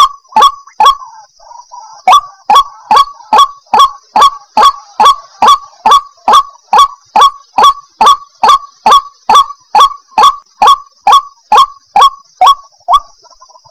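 White-breasted waterhen (ruak-ruak) calling: a loud, fast run of short, harsh, sharply pitched notes, about two and a half a second. The run breaks briefly about a second in, then resumes at an even pace.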